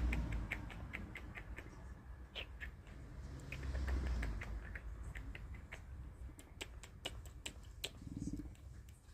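A person making strange clicking noises with the mouth at a cat: a long run of sharp, irregular clicks and pops, with a short low hum near the end.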